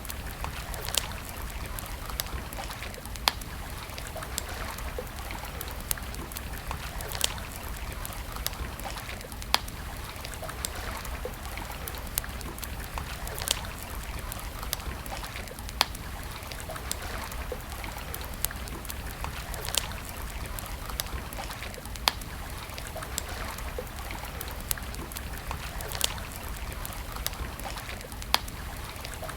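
Wood campfire crackling, with irregular sharp pops and snaps, a few much louder than the rest, over a steady rush of flowing water.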